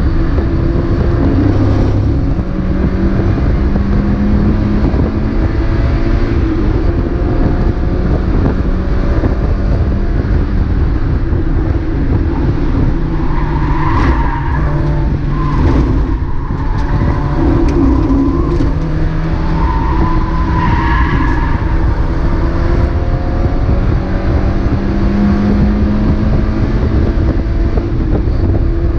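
Mazda MX-5 race car's four-cylinder engine at racing speed, revs repeatedly climbing and dropping through gear changes. Brief tyre squeal twice around the middle.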